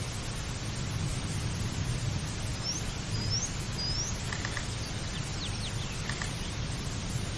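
A bird calling: three short, high, upward-sweeping notes about half a second apart, followed by a few fainter short chips and falling notes, over a steady low rumble.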